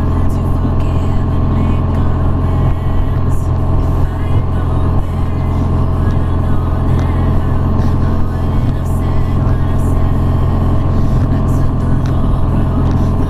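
BMW R nineT's boxer flat-twin engine running at a steady cruising speed while riding, with no revving.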